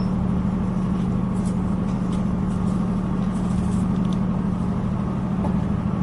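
Diesel passenger train running, heard from inside the carriage: a steady drone of engine and wheels on track with a strong low hum.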